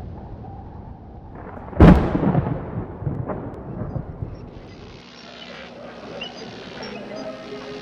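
A single loud crack about two seconds in that rumbles away over the next couple of seconds, over a steady hiss.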